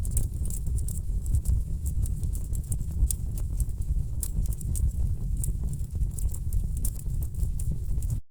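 Wood fire burning in a fireplace: burning logs crackling and popping irregularly over a steady low rumble of the flames. The sound cuts out for a moment near the end.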